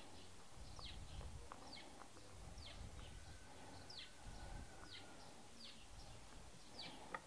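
Faint birdsong: a short, high chirp falling in pitch, repeated about once a second over a low outdoor background.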